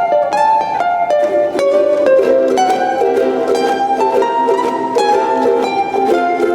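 A ukulele ensemble playing a Hawaiian tune: a plucked melody over chords, without a break.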